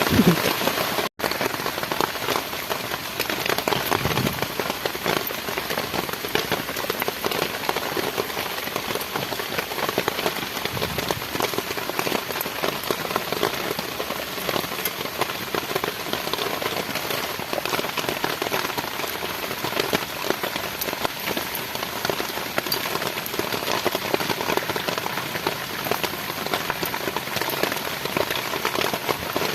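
Heavy tropical rain falling steadily, a dense, even stream of drops striking, with a momentary break about a second in.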